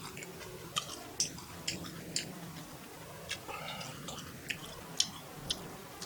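Close-up chewing of spicy beef fried rice, with irregular sharp clicks and mouth smacks, about a dozen in all.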